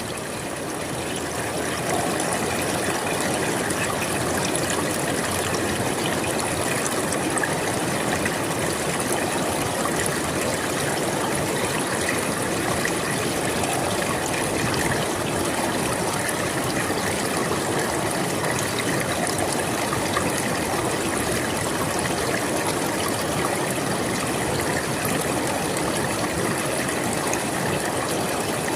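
A river flowing steadily: an even, continuous rush of water with no breaks.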